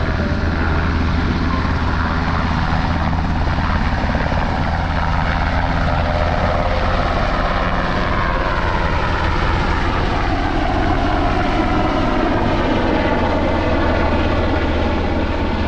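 Cal Fire firefighting helicopter's rotor and turbine running steadily as it flies off carrying water it has just drawn up from the lake through a hanging hose. Its pitch slowly slides lower and then back up as it moves.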